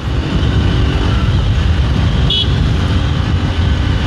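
Riding sound of a Hero Xtreme 200R motorcycle: a steady low rumble of engine and wind on the microphone. A short, high horn beep sounds a little over two seconds in.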